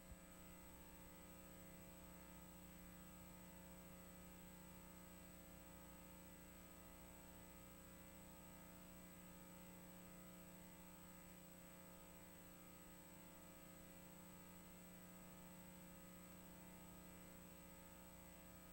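Near silence: a faint, steady electrical hum with a thin high whine and light hiss from the VHS playback and transfer.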